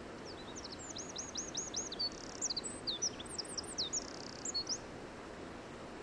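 A songbird sings one high, quick phrase: a run of about six repeated sliding notes, then a stretch of more varied notes, lasting about four and a half seconds over a steady faint background hiss.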